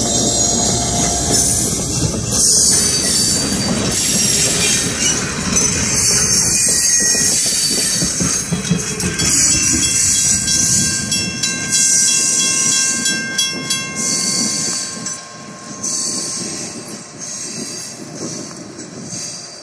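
Passenger train running on the rails, its wheels clattering and squealing. From about halfway there are thin, steady high squeals, and the sound fades over the last few seconds as the train moves off.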